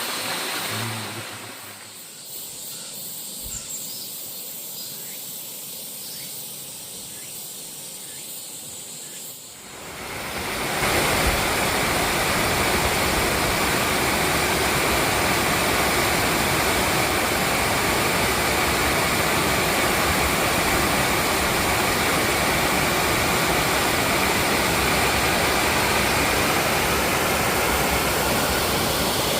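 Waterfall: a steady rush of falling water, fainter for the first several seconds, then much louder from about ten seconds in.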